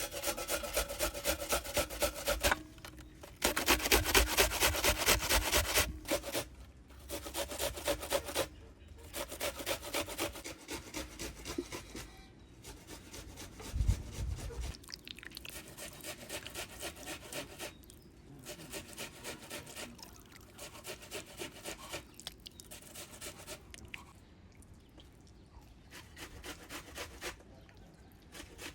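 Fast, rhythmic back-and-forth scraping strokes from food preparation, coming in several bursts with short pauses between them. The strokes are loudest about four to six seconds in, and a single low thud comes about halfway through.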